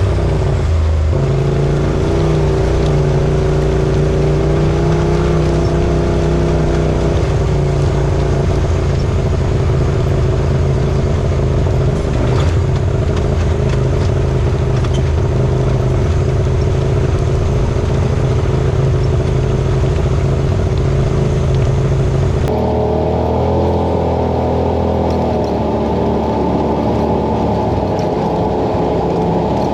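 Polaris RZR Pro XP side-by-side engine running at a fairly steady pitch while riding along a trail. About two-thirds of the way through it cuts abruptly to another stretch of similar engine sound that sounds duller.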